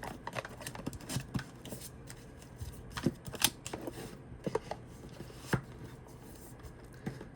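Tarot cards being handled, with irregular light taps and clicks as the cards and deck are moved about.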